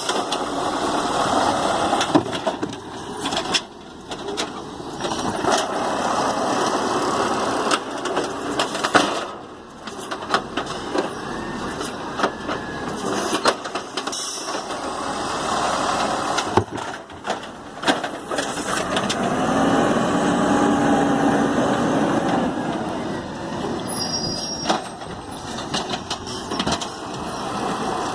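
Garbage truck working along a line of cans: engine running, with repeated sharp clanks and a whine that rises and falls about two-thirds of the way through.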